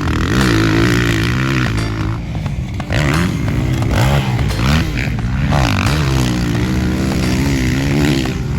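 Motocross dirt bike engines revving, their pitch rising and falling again and again as the throttle opens and closes.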